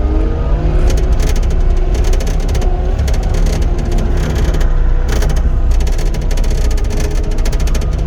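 Cat 259D compact track loader running steadily with a deep engine rumble, along with irregular metallic clatter and rattling from the machine as it works.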